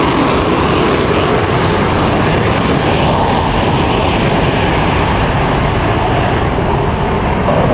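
Steady jet noise from Mirage 2000D fighter jets' M53 turbofan engines.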